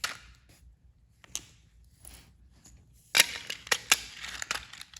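Batteries and a plastic toy train engine being handled: a sharp click at the start and another just over a second in, then a quick run of sharp plastic clicks and clatter about three seconds in.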